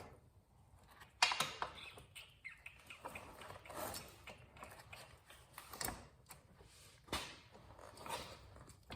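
Irregular metallic clicks, knocks and scrapes of hand tools and parts being handled during work on a motorcycle's rear wheel assembly, with the loudest knock just over a second in.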